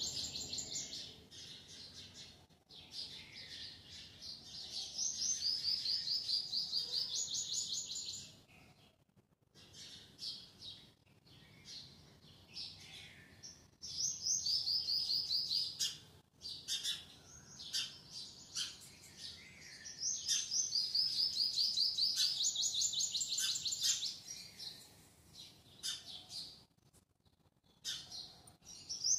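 Small birds chirping in fast, high-pitched trilled phrases a few seconds long, repeated several times with short quieter gaps.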